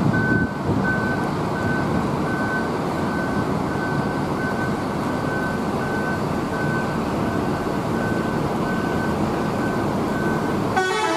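A vehicle's reversing alarm beeping steadily, about two to three beeps a second, over the dense hiss of heavy rain and a running vehicle engine. A short, sharp sound cuts in near the end.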